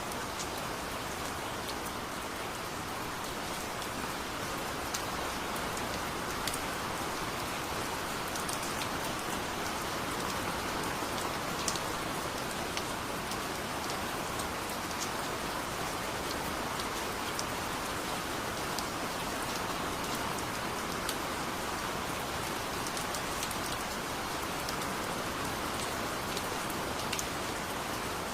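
Steady heavy rain falling, a constant hiss with scattered sharp drop ticks on a hard surface.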